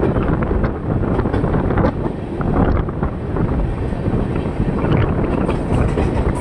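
Steady rumble of a moving Indian Railways passenger express, heard from inside the coach, with heavy wind buffeting the microphone.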